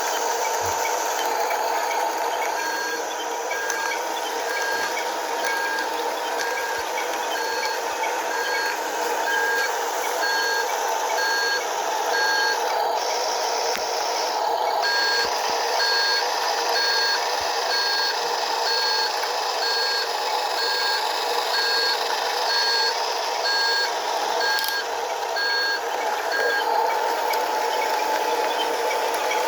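Toy tow truck's reversing beeper sounding in an even series of short beeps, about one and a half a second, pausing for a couple of seconds midway and stopping near the end, over a steady mid-pitched hum.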